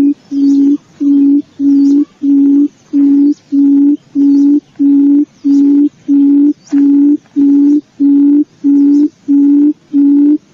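Barred buttonquail calling: a long, even series of short low hooting notes, about two a second, the booming call used from a decoy bird to lure others.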